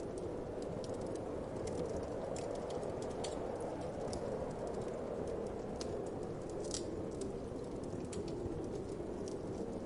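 Wood fire crackling, with irregular sharp pops and snaps over a steady low rush of wind.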